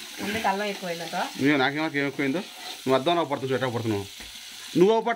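Voices talking in three stretches over the steady hiss of boti (goat intestine) curry frying in a pan.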